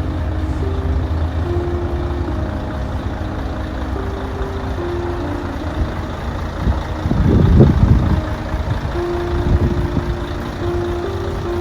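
Truck engine running steadily with a low rumble, swelling louder for about a second around seven seconds in.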